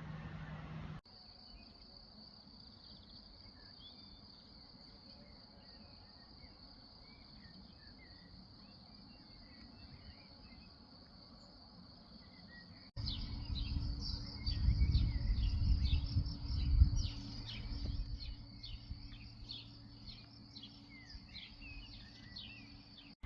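An insect, cricket-like, keeps up a steady high trill with a few faint bird chirps over it. About halfway through the sound changes abruptly to a louder stretch: the trill goes on under a rapid run of repeated chirps and a low rumble.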